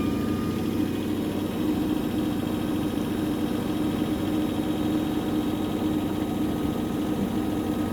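Washing machine in its spin cycle with an unbalanced load, the drum spinning with a steady motor hum.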